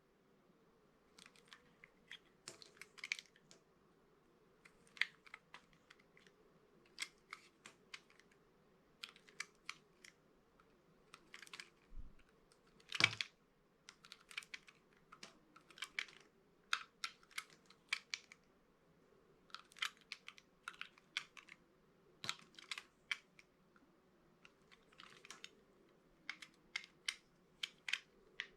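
Knife cutting dry bar soap: a long run of short, crisp crunches and clicks in irregular clusters, the loudest about thirteen seconds in.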